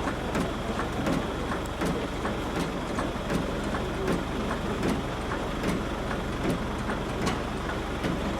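A vehicle engine running steadily, with scattered light clicks and knocks.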